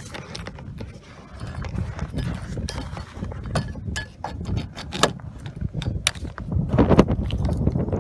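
Pop-up camper's roof-lift hand crank being turned, with irregular metallic clicks and clunks.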